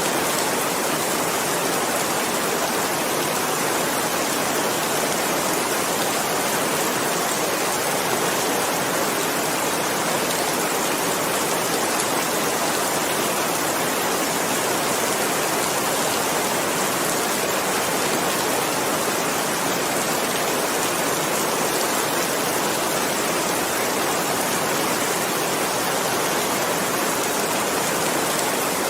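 Steady rain, an even, unbroken hiss of falling rain with no individual drops or thunder standing out.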